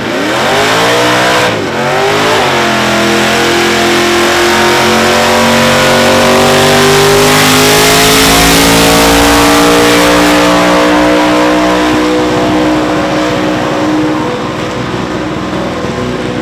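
Supercharged VK Holden Commodore's engine revving hard through a burnout. It dips briefly under two seconds in, then is held at high revs with the pitch slowly climbing, and drops off near the end.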